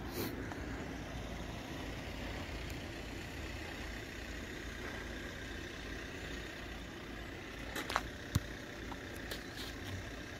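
Steady low rumble of a motor vehicle engine running, with a couple of sharp clicks near the end.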